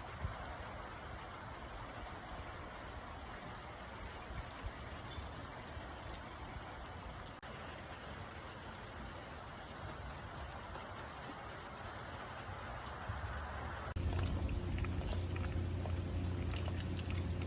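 Steady rain falling, an even hiss with scattered drops ticking. About 14 s in, the hiss drops away and a low steady hum takes over.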